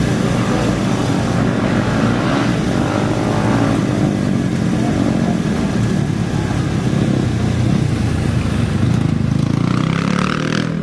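Engines of off-road racing motorcycles and quads running loudly and continuously, with a rise in pitch near the end.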